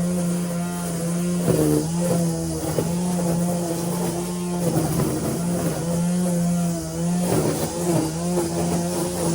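Lawn mower running steadily, a constant motor hum whose pitch dips briefly a few times.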